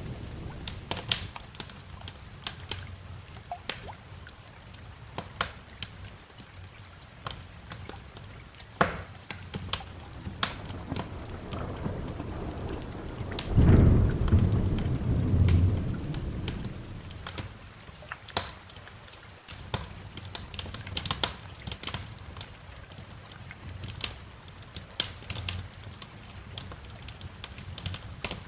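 Wood fire crackling and popping in a fireplace, with sharp, irregular snaps throughout over a steady patter of rain. A low roll of thunder swells about fourteen seconds in and fades over a few seconds.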